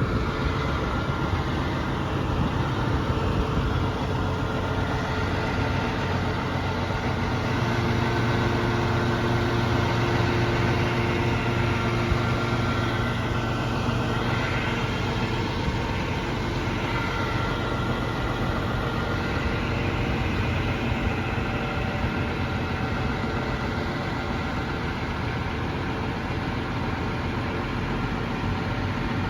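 Scania 124G truck's six-cylinder diesel engine running steadily near idle, a little louder for a few seconds in the first half.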